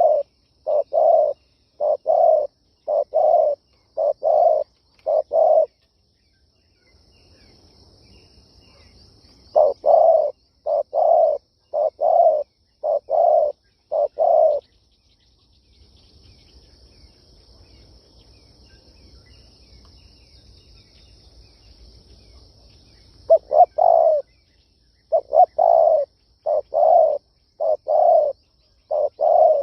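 Spotted dove cooing: runs of short, low coos at a little under two a second, in three bouts with pauses between them.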